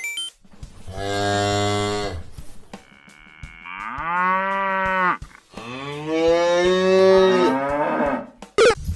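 Cow mooing: three separate moos, the second and third longer than the first.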